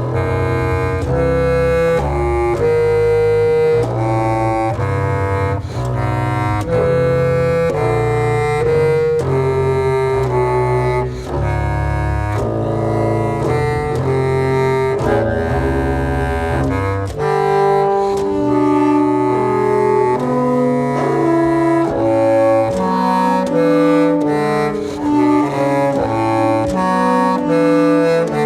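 A clarinet and double bass duo playing contemporary improvised-style music. Low held notes sound under a line of short notes that change pitch every second or so. About two-thirds of the way in the low notes drop out, and the higher line carries on alone in a lower register.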